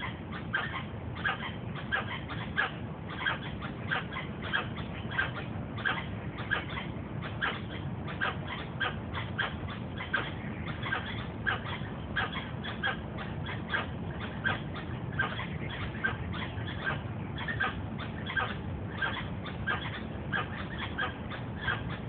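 A bird in a tree calling in a long, even run of short, sharp notes, about two or three a second, over a steady low background noise.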